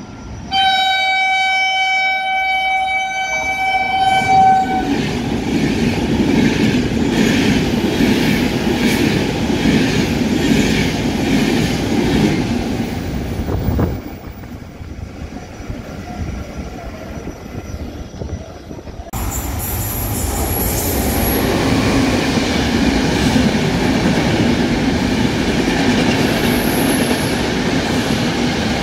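An ETR 470 Frecciabianca tilting train sounds one long horn blast of about four seconds, then passes at speed with loud rail and wheel clatter. Later an E464 electric locomotive hauling regional coaches rolls through with more wheel clatter on the rails.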